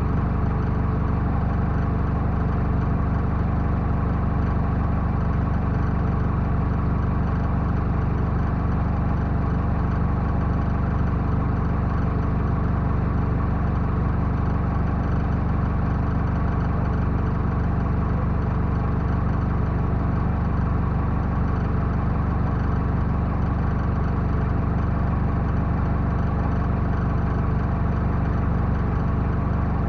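Backhoe loader's diesel engine running steadily at one even speed, with no revving or load changes.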